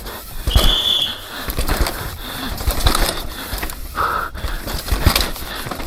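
A 160 mm-travel full-suspension mountain bike rattling and knocking down a rough trail at race pace, with wind rushing over the microphone. Two short whistling tones cut through, a higher one about half a second in and a lower one about four seconds in.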